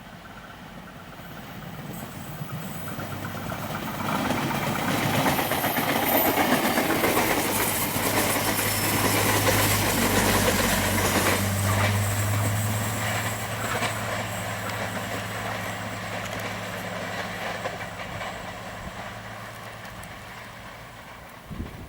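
Diesel-hauled train passing by: it builds up over about four seconds, is loudest in the middle with a steady low locomotive engine hum over wheel and rail noise, then slowly fades away.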